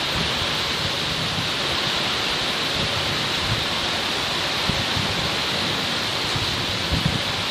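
Heavy rain falling steadily, with short, soft low thuds now and then.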